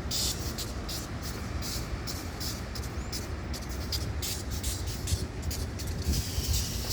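Commuter train running through a station: a steady low rumble with frequent sharp clicks, and a hiss rising near the end.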